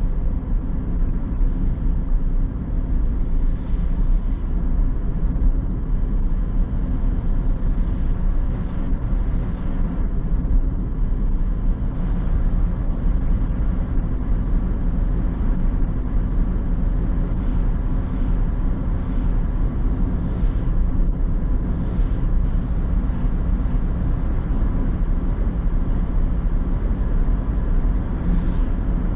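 Car driving along: a steady low engine hum with tyre and road rumble.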